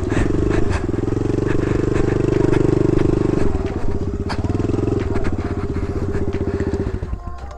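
Kawasaki KLX110 dirt bike's small single-cylinder four-stroke engine held at high revs while the rear tyre spins in soft dirt, digging in and throwing up dirt. The engine eases off about three and a half seconds in and drops away near the end.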